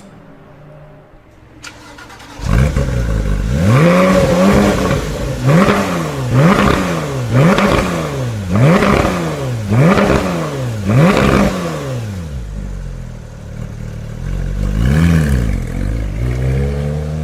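A supercar's engine starts up with a sudden loud catch, then is revved hard about seven times in quick succession, roughly one blip a second. It settles to idle and is blipped once more near the end.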